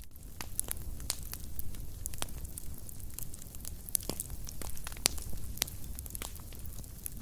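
Wood fire burning in a fireplace, with a low rumble of flames and irregular sharp crackles and pops, the loudest about four and five seconds in.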